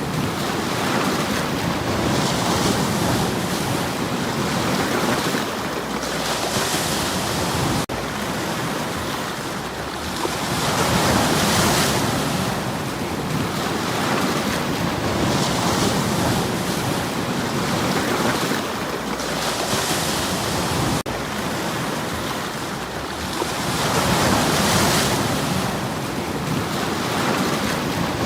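Sea waves breaking on a stony shore: a continuous wash of surf that swells and eases about every four to five seconds. Twice the sound breaks off for an instant.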